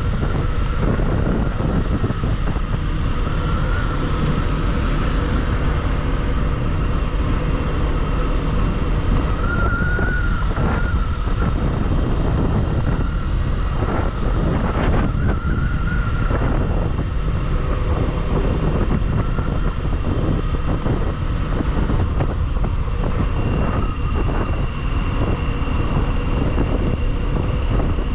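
Bajaj Pulsar single-cylinder motorcycle running at a steady cruise, with heavy wind rushing over the microphone. Its engine note wavers slightly up and down.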